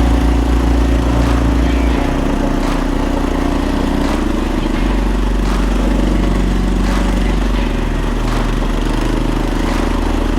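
Walk-behind tractor (motoblock) engine running steadily while under way, its pitch stepping down and back up a few times, with a few light knocks and rattles.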